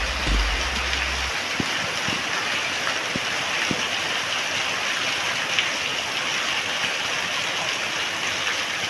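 Rain falling steadily, an even hiss with scattered drips ticking through it.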